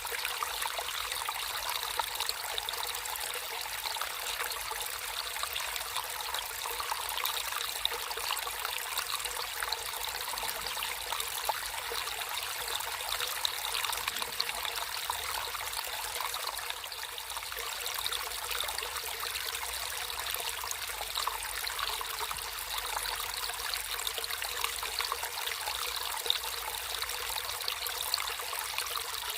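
Water trickling and babbling steadily over stones in a small stream.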